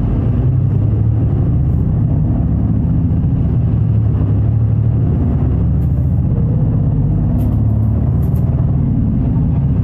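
Route bus running under way, heard from inside the cabin: a steady low engine and road drone, with a few light clicks or rattles around six to eight seconds in.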